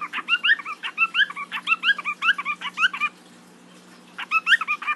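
A bird imitating a small dog: a quick run of short, rising, yip-like calls, about four or five a second, that stops for about a second past the halfway point and then starts again.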